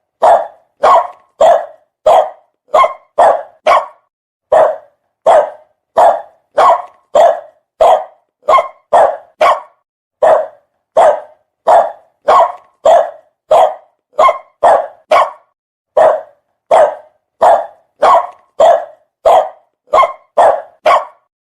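A fierce dog barking over and over in an even run of short, loud barks, about three every two seconds, with clean gaps between them.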